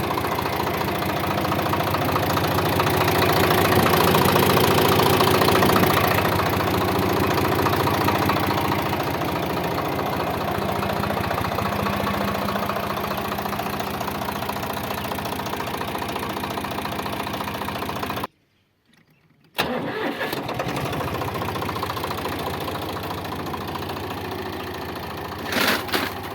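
Deutz-Fahr Agrolux 50 hp tractor's diesel engine running steadily, growing louder for a few seconds early on and then settling back. About eighteen seconds in it drops out for a second or so, then runs on as before, with a short louder spell near the end.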